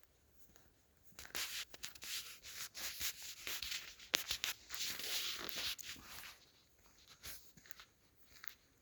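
Footsteps crunching and rustling through dry leaf litter, about two steps a second, starting about a second in and fading out after about six seconds.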